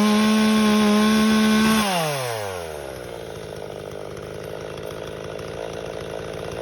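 Two-stroke chainsaw at full throttle with a slightly wavering high note, apparently cutting wood. About two seconds in the throttle is released: the pitch falls steeply and the saw settles to a quieter, steady idle.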